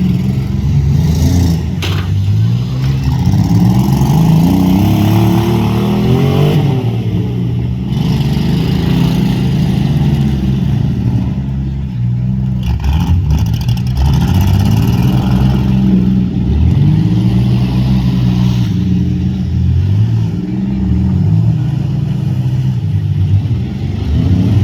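Several demolition derby cars' engines revving at once, their pitches rising and falling over and over, with a few sharp knocks of impact.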